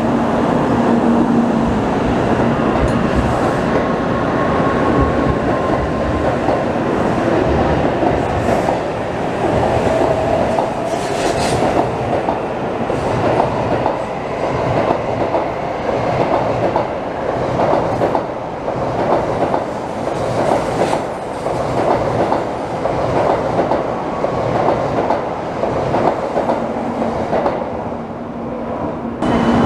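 Shinkansen bullet train cars rolling past at close range: steady wheel-on-rail running noise with a faint whine, easing off near the end as the last car goes by.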